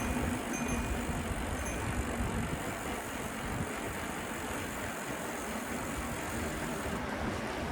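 Street traffic heard from a moving bicycle: a steady rush of vehicle noise with wind rumbling unevenly on the microphone.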